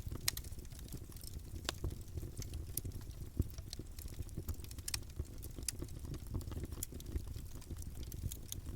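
Wood campfire burning, with irregular crackles and sharp pops over a steady low rumble of the flames.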